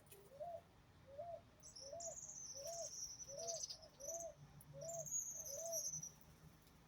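Birds calling: a low note repeated about eight times, each rising at its end, over a high, thin, wavering trill that starts a little later. Both stop about a second before the end.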